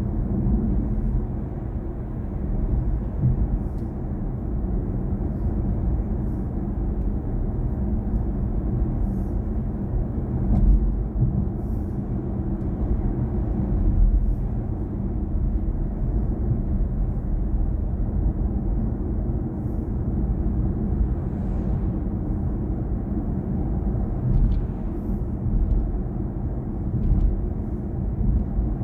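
Steady low road and tyre rumble of a BMW i4 M50 driving along, with no engine note since the car is electric.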